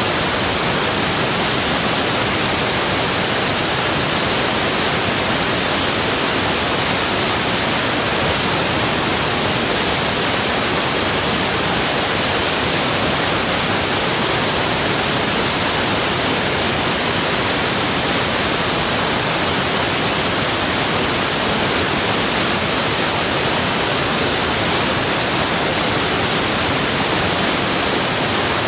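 Rushing water of a forest waterfall or river, an even, unbroken hiss with no change in level.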